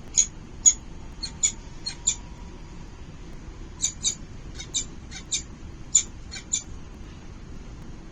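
Falcon chicks in the nest giving short, high-pitched squeaky begging calls in two quick runs, the second starting about four seconds in. The calls stop for the last second and a half, leaving only a low steady hum.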